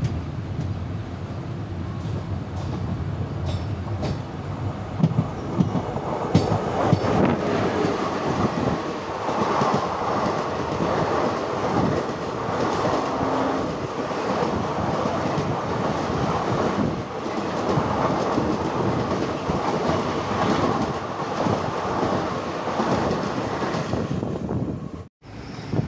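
Passenger train running on the rails: a steady rumble of wheels and carriage, with the clickety-clack of wheels over rail joints, clearest in the first few seconds. The sound cuts out sharply for a moment near the end.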